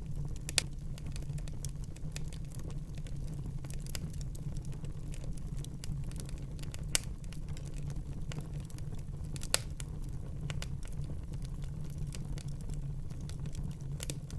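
Fire burning in a fireplace: steady crackling with a low rumble beneath, and three sharper, louder pops about half a second, seven seconds and nine and a half seconds in.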